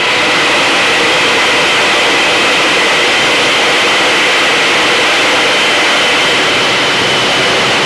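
Supersonic wind tunnel running: a loud, steady rush of high-speed airflow with high whistling tones held through it, unchanging throughout.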